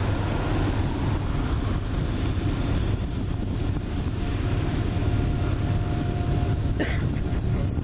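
Heavy coal train working upgrade: a steady low rumble of diesel locomotives under load. A faint held tone comes and goes, and there is a short click near the end.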